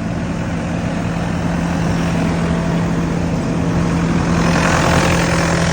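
Rebuilt diesel engine of a 2007 Bobcat compact track loader running steadily, growing somewhat louder toward the end.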